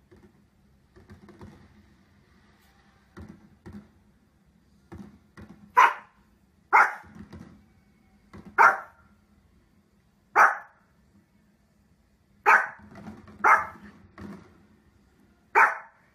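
A Pomeranian barking: seven sharp single barks spaced one to two seconds apart, beginning about six seconds in, after a few faint softer sounds.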